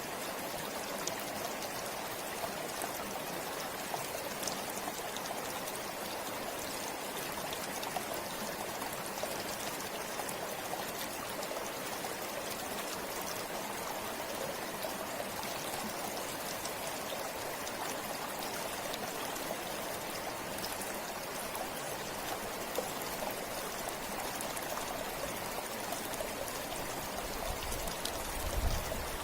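River flowing steadily, a continuous even rush of water, with a brief low thump near the end.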